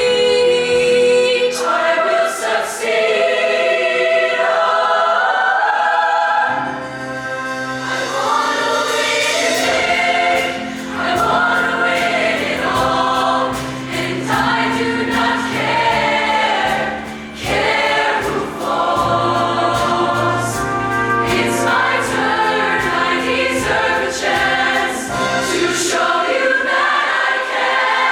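Show choir singing in full-voiced harmony. A low, sustained bass part comes in about six seconds in.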